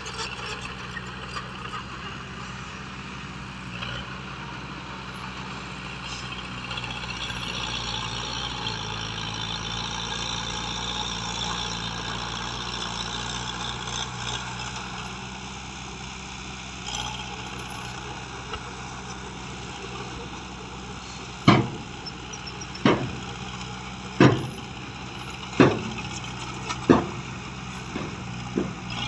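Heavy diesel excavator running steadily, with a hiss that swells and fades partway through. Near the end come about five loud, sharp bangs roughly a second and a half apart.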